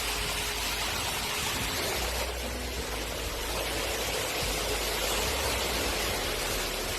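Hurricane wind and rain: a steady rushing noise with a low rumble of wind buffeting the microphone.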